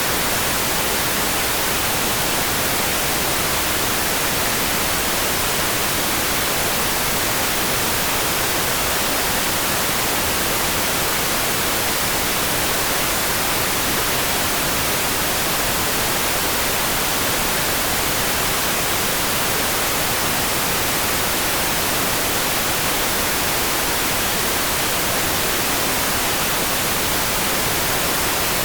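Steady, even hiss of white noise, unchanging throughout, with no separate drops, thunder or other events.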